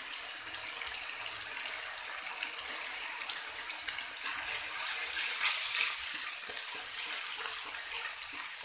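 Spice paste sizzling and crackling in hot mustard oil in a kadai while the masala is fried down, with a spatula stirring and scraping it from about halfway.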